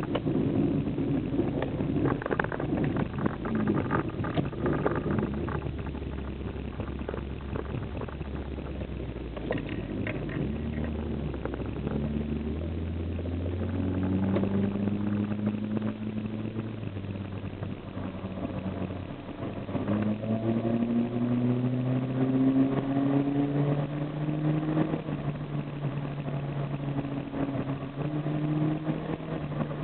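Toyota Carina's 5A-FE four-cylinder engine running through a homemade exhaust with a Honda Accord muffler welded on. It runs low and steady at first. Around the middle its note climbs, climbs again about two-thirds in, drops back, and then holds steady.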